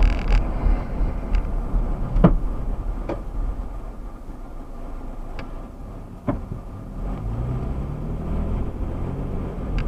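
Car driving, with steady engine and road rumble and a few short sharp knocks. The engine note rises in the last few seconds as the car speeds up.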